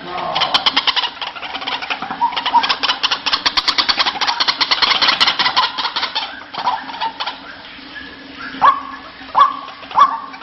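White-breasted waterhen (ruak-ruak) calling: a fast chattering run of pulsed notes for several seconds, then, from about eight seconds in, short sharp calls repeated about one and a half times a second.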